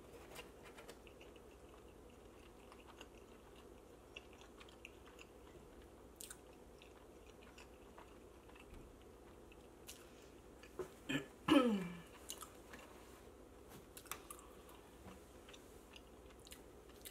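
Close-up chewing of a mouthful of pizza, with faint wet mouth clicks. About eleven and a half seconds in comes a short vocal sound that falls in pitch, the loudest moment.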